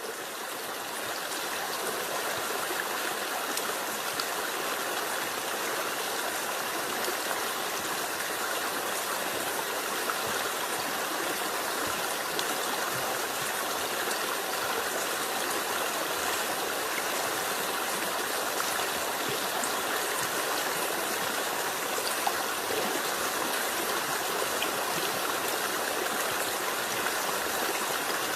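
Flowing water: a steady, unbroken rush that fades in over the first second or two.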